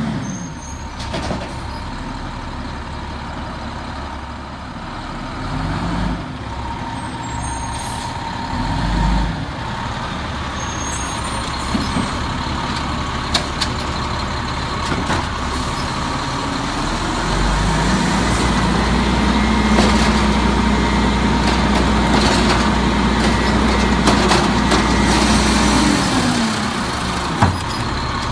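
Peterbilt 320 garbage truck's diesel engine running, with two short revs and then about eight seconds held at higher revs before it drops back to idle.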